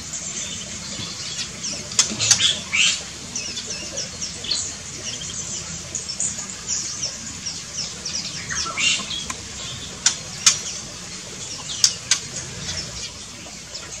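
Small birds in an aviary giving many short, high chirps and calls, with a few sharp clicks about two seconds in and again around ten seconds in.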